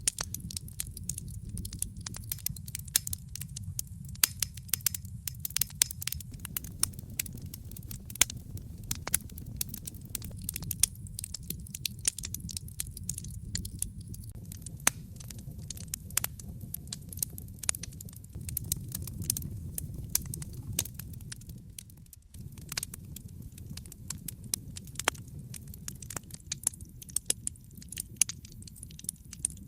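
Wood fire in a fireplace crackling, with frequent sharp irregular pops over a steady low rumble of the flames. The sound dips briefly about three-quarters of the way through.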